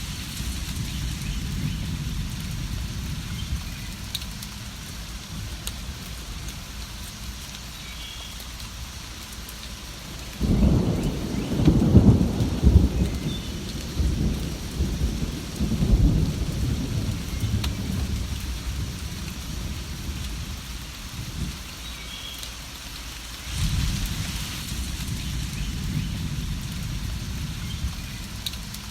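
Steady rain with rolling thunder. A long low rumble swells about ten seconds in, is loudest a couple of seconds later and dies away slowly, and another rumble begins near the end.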